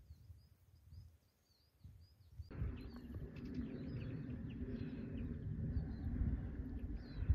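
Small birds chirping repeatedly in short high calls. About two and a half seconds in, a steady low rumble starts underneath.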